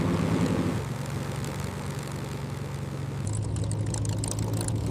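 P-51 Mustang's Merlin V12 engine and propeller droning steadily in flight. The tone shifts lower about a second in and again after about three seconds, with a rough crackle over the drone.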